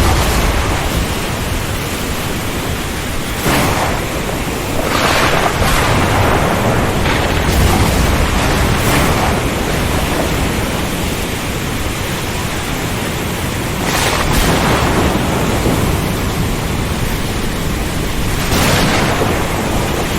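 Steady, loud hiss of heavy rain, with brief surges that swell and fade about six times.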